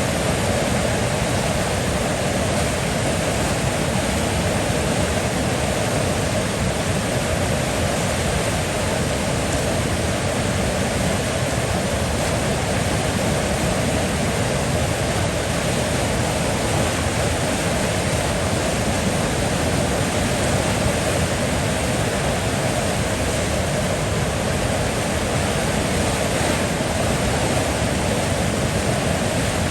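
Flowing river: a steady, unbroken rush of water.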